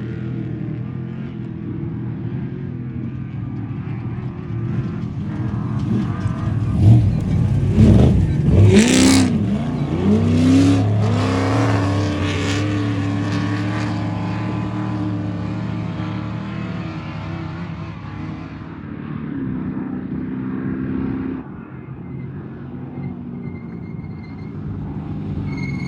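Off-road race vehicle engine running and revving. It gets loudest as it passes about 7 to 10 seconds in, its pitch sweeping up and down, then settles into a steadier drone that drops away about 21 seconds in.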